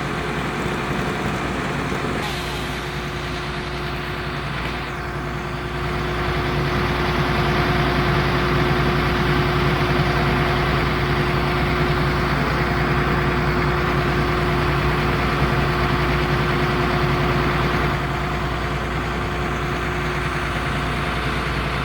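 A heavy vehicle engine idling steadily, rising somewhat in level about six seconds in and easing back near the end.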